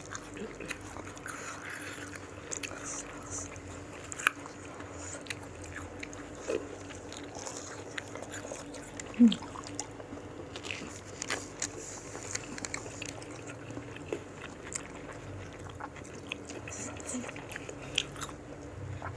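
Biting and chewing crisp raw fruit pieces coated in thick rujak sambal: scattered wet crunches and small mouth clicks, with a brief louder sound about nine seconds in.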